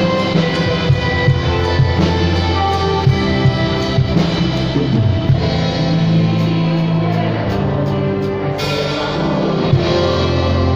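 Band music with no singing: a drum kit keeps a steady beat under sustained guitar and bass chords. The drums thin out partway through and come back in strongly near the end.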